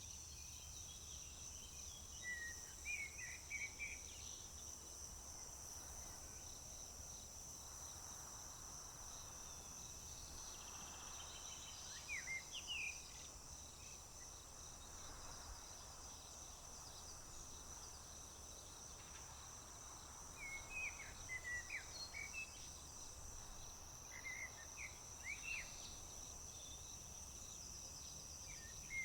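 A steady, high insect trill, typical of crickets, runs without a break. A songbird sings short chirping phrases over it about four times.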